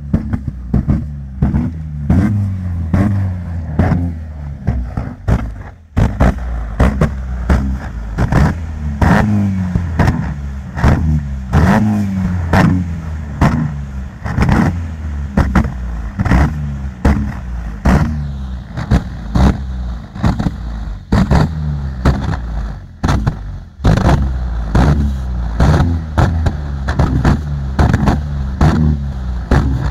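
Car engine revved in quick repeated blips, the pitch rising and falling about once a second. A flame-thrower exhaust fires loud sharp cracks and pops with the revving.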